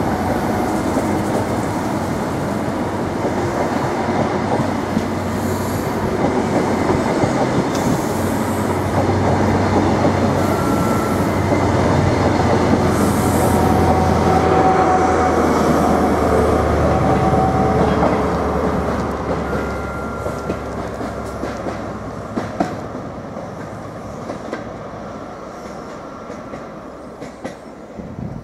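Great Western Railway High Speed Train (HST125) rolling past close up: wheels clattering over the rail joints, a low diesel hum underneath and a few brief thin wheel squeals. The noise builds to a peak around halfway and then fades steadily as the train pulls away.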